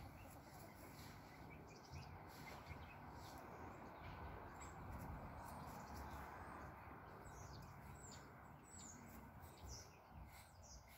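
Near silence with a faint outdoor hiss and a scattering of short, high bird chirps, more of them in the second half.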